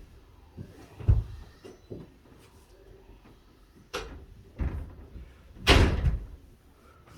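A few separate knocks and thumps, the loudest and longest about six seconds in.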